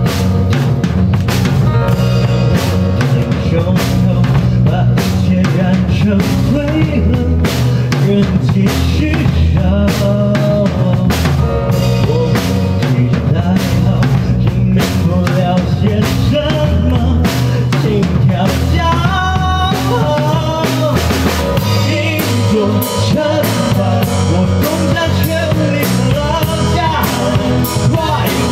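A live band playing a song, a drum kit keeping a steady beat with kick and snare under a melody line, loud and continuous.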